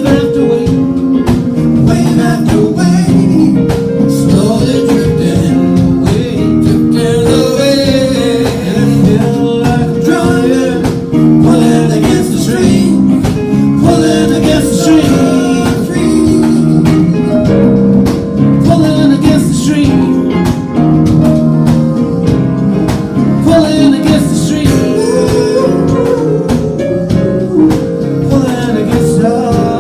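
A band playing a song, with singing over guitar, chords and a steady beat.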